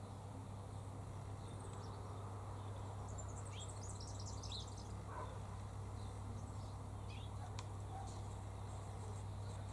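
Faint bird chirps in a quiet outdoor background with a steady low hum: a quick cluster of short, high chirps about three to five seconds in, then a few scattered ticks and chirps.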